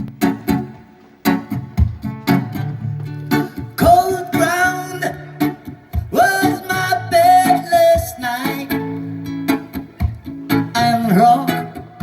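Acoustic guitar playing a song's introduction, plucked and strummed in a steady rhythm. A voice sings long wordless held notes over it twice in the middle and again near the end.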